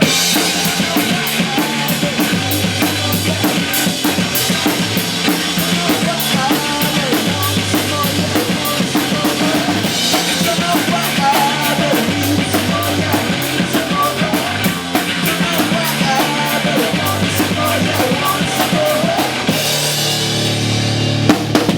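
Rock band playing with no singing: a drum kit keeps a fast, even beat on the cymbals over pulsing bass notes. Near the end the beat stops and the music rings on as one held sound.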